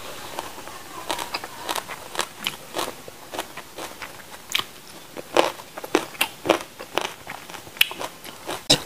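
Close-miked eating: irregular crisp crunches and bites as raw young jengkol is chewed.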